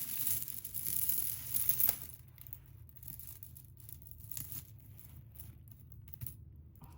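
Handling noise: a crinkling rustle for about two seconds, then faint scattered light clicks and taps as small items are handled.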